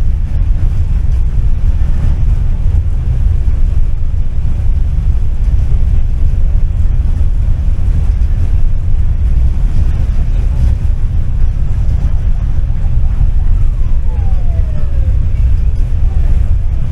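Tram running along its track with a steady low rumble, and a brief falling whine near the end.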